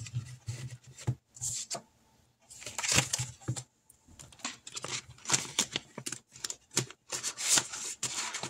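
Paper rustling and crinkling in short bursts with sharp little clicks: paper cash and envelopes being handled.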